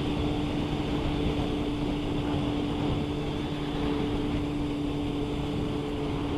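Motorcycle engine running at a steady, unchanging pitch while cruising, under a constant rush of wind and road noise.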